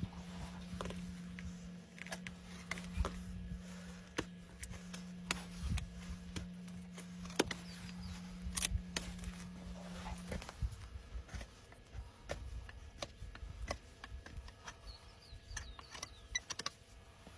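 Irregular clicks and scrapes of hoof tools working on a horse's hoof, with a low steady hum that stops about ten seconds in.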